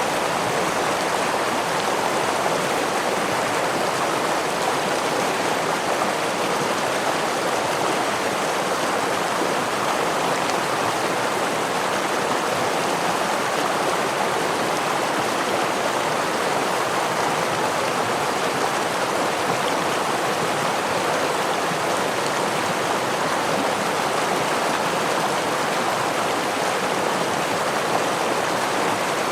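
Running water of a forest stream and waterfall: a steady, even rush that does not change.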